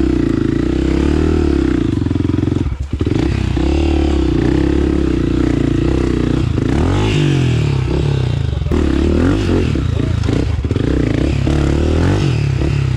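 Honda CRF250F single-cylinder four-stroke trail bike engine running under changing throttle, its pitch rising and falling, with a brief cut in power about three seconds in.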